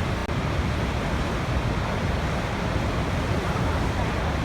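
Waterfall: falling water rushing in a steady, even wash, heaviest in the low end.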